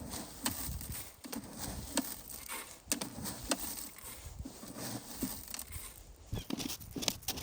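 Footsteps crunching through snow, about two steps a second at first, then less regular.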